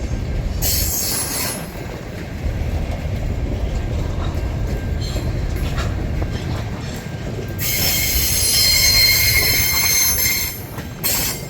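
Freight train wheels squealing against the rails over the low rumble of the slowly moving train, as it leaves a crossing loop with its locomotives not yet at full power. A brief squeal comes about a second in, and a longer, louder one runs from about two-thirds of the way through, with a short one near the end.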